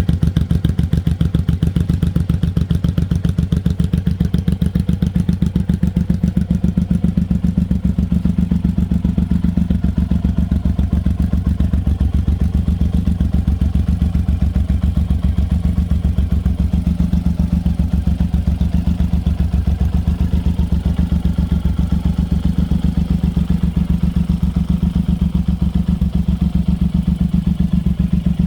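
Suzuki VZR 1800 Boss's 1,800 cc V-twin idling steadily through an aftermarket Miller exhaust, with an even, deep pulse and no revving.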